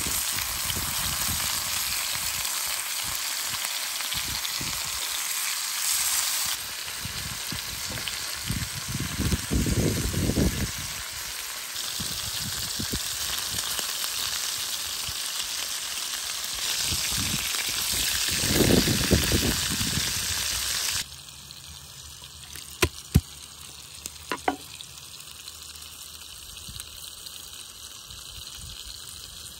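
Bacon-wrapped chicken sizzling steadily in a cast-iron pan, with a few scraping surges as the pieces are turned. About two-thirds of the way through the sizzling stops suddenly, leaving a quieter background with a few sharp clicks as garlic is peeled by hand on a wooden board.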